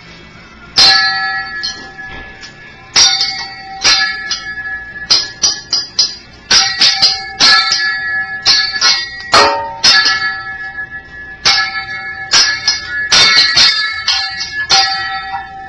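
Teppanyaki chef's metal spatulas clanging and tapping, struck together and on the griddle in quick clusters of hits, each strike ringing on briefly.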